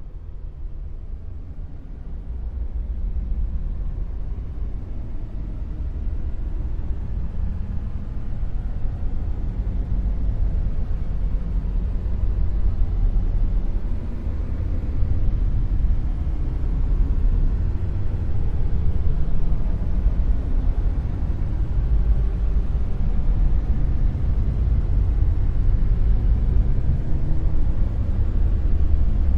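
Dark noise: a steady, deep rumbling noise with no tone or rhythm, nearly all of it in the low bass, growing slightly louder over the first several seconds and then holding even.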